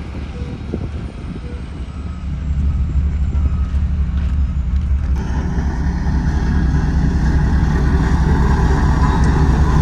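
Diesel engine of a Sakai road roller running steadily with a low hum. It gets louder about two seconds in, and a rougher, noisier layer joins about halfway through and keeps going.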